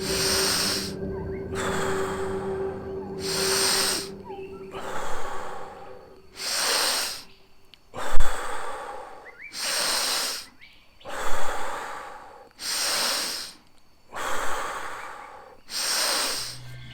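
Wim Hof method power breathing: deep, rhythmic breaths in and out, about one full breath every three seconds, over a faint steady background drone.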